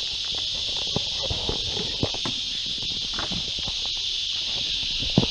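Insects in the bush keeping up a steady, high-pitched chorus, with scattered light knocks and scrapes underneath.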